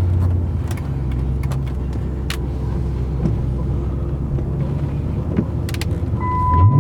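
Chrysler 300 SRT8's 6.1-litre Hemi V8 through an aftermarket Flowmaster exhaust, running steadily at a low, even rumble while driving. Near the end the revs climb sharply as the car accelerates hard.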